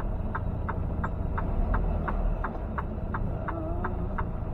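Turn-signal indicator ticking steadily, about three clicks a second, over the steady low drone of the truck's engine and road noise inside the cab.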